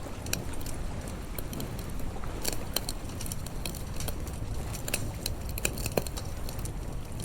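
Wood fire crackling, with irregular sharp pops over a low steady rumble; the loudest pop comes about six seconds in.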